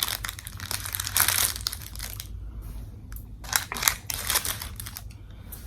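Close crinkling and crunching from handling and eating a banh mi: a dense crackly stretch of about two seconds, then a few sharp crackles about a second and a half later.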